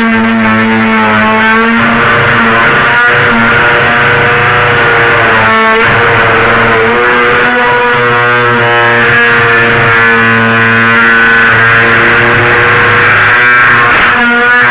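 Dremel rotary tool running at high speed while cutting, a steady loud whine whose pitch wavers slightly as it is loaded.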